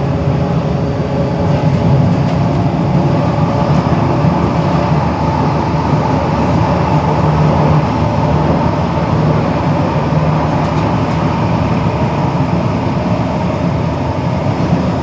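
Underground metro train running, a steady loud rumble of wheels and motors with no sudden events.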